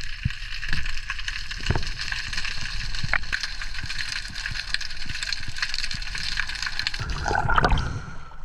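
Water sloshing and gurgling, with scattered short clicks, swelling louder near the end.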